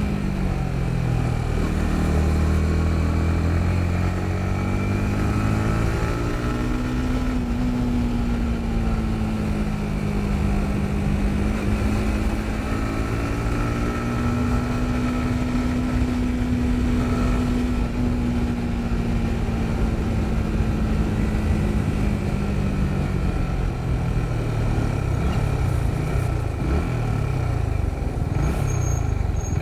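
Yamaha MT-15's 155 cc single-cylinder engine running under way. Its pitch drops at the start, climbs and holds steady through the middle, falls, then rises and drops in quick repeated dips near the end as the revs change.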